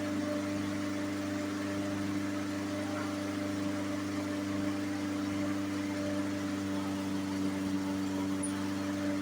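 Toro push mower's small single-cylinder engine running steadily at a constant speed, after its carburetor work.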